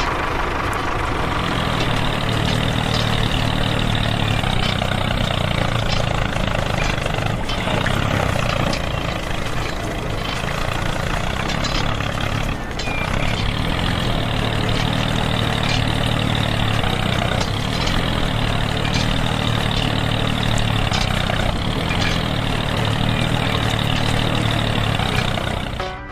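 Tractor-style engine running steadily at idle, a loud even drone that cuts off right at the end.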